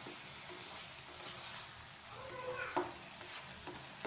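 Beaten eggs and masala sizzling in a non-stick frying pan on a raised flame while a spatula stirs and breaks them up, with a sharper scrape or tap of the spatula on the pan a little under three seconds in.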